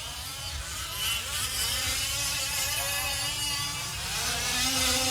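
Several 1/5-scale RC off-road trucks' small two-stroke engines buzzing as they race, each pitch rising and falling with the throttle. The sound gets louder near the end as the trucks come closer.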